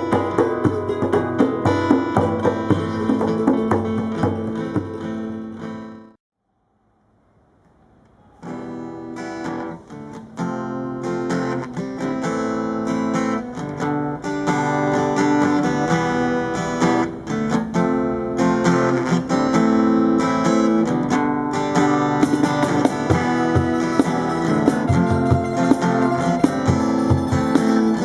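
Brazilian popular music led by strummed acoustic guitar, with percussion strokes. The music stops about six seconds in, falls silent for about two seconds, then starts again and plays on.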